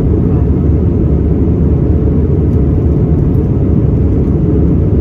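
Airbus A320 cabin noise: a steady low rumble of the jet engines and rushing air, heard from inside the passenger cabin.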